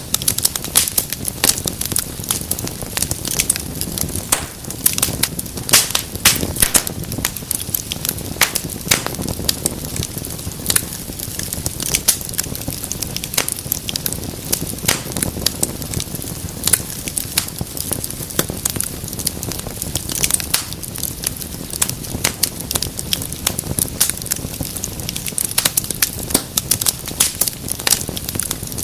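Wood fire in a fireplace crackling steadily, with frequent sharp pops and snaps over a soft low rumble of the flames.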